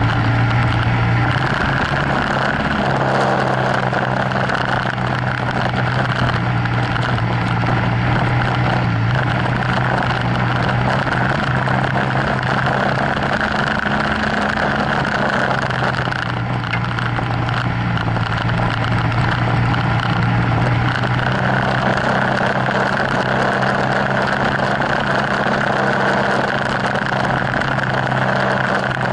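BMW F800GS parallel-twin engine running under way on a gravel track, over a steady rush of tyre and wind noise. Its note dips and rises a few times as the throttle changes.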